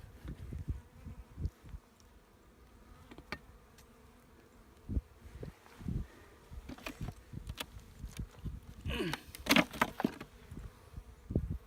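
Honeybees buzzing around an opened hive, with scattered knocks and handling thumps. A loud scraping creak comes about nine seconds in.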